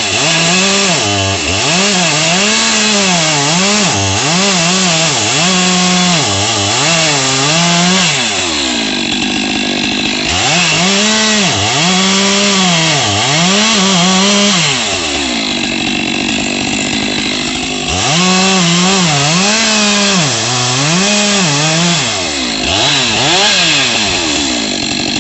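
Two-stroke chainsaw revved again and again in quick throttle blips, its pitch climbing to a high scream and dropping back each time, with short spells of lower running between three runs of blips.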